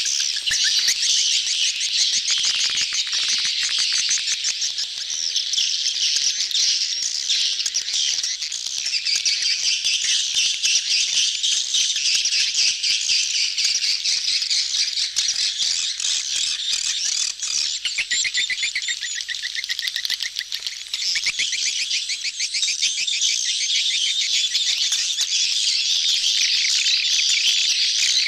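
A crowded flock of swiftlets calling all at once: a steady wall of overlapping high, fast-rattling chirps and twitters. These are the crowded breeding-season colony calls played as a lure to draw swiftlets into a nest house.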